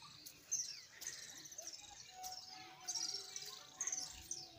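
Small birds chirping: a string of quick, high chirps and short gliding whistles, several overlapping.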